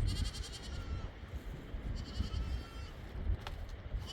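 Small livestock bleating: one call at the start and another about two seconds in, over a low rumble, with a single sharp click near the end.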